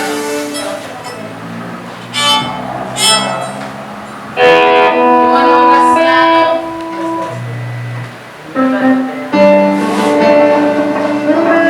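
Church worship band playing a song in rehearsal, with held notes growing louder about four and a half seconds in.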